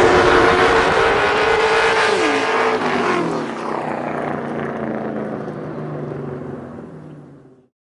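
Racing engine revving hard during a drift run. Its pitch drops about two and a half seconds in, then it runs on more quietly and fades before cutting off suddenly near the end.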